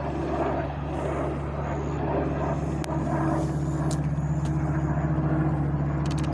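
An engine running with a steady drone and a slight pulsing.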